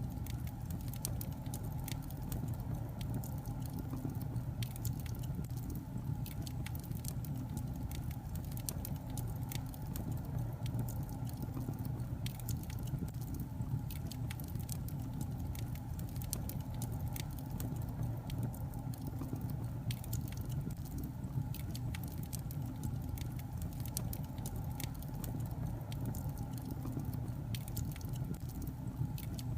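Logs burning in a fireplace: frequent irregular sharp crackles and pops over a steady low rumble of the fire.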